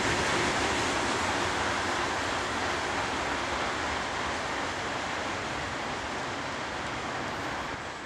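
Steady rushing noise of a departing freight train's wheels on the rails, slowly fading as the train moves away.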